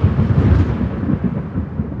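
Thunder rumbling after a heavy clap: a deep, rolling roll that slowly fades, its higher crackle dying away first.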